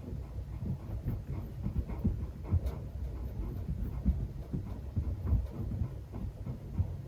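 Netherland Dwarf rabbit honking: a run of soft, low 'bu-bu' grunts, several a second. This is the call a rabbit makes when excited and happy at play.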